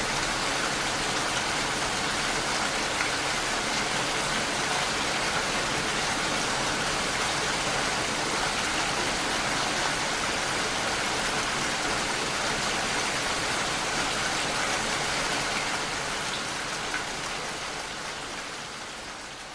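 Steady rain falling, an even, dense patter, fading out gradually over the last few seconds.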